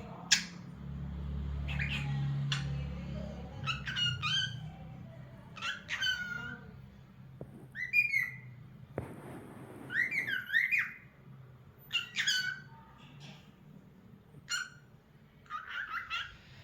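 Lutino cockatiel whistling its song in a string of short whistled notes and chirps, with a quick warbling run of rising and falling whistles about ten seconds in.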